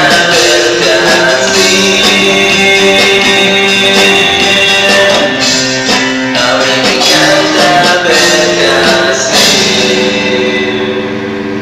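Psychedelic rock song ending: strummed guitar chords with a voice singing, closing on a final chord left to ring out and fade.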